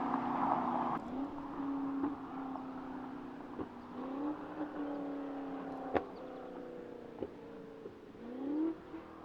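BMW X5M Competition's S68 twin-turbo V8 heard from outside through a free-flow downpipe and full valved exhaust, its note rising in pitch a few times and fading as it moves away. A few sharp cracks are heard along the way.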